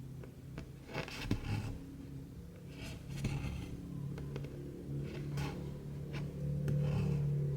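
Cotton thread being pulled through cross-stitch fabric: short hissing swishes every second or two, with a steady low hum underneath.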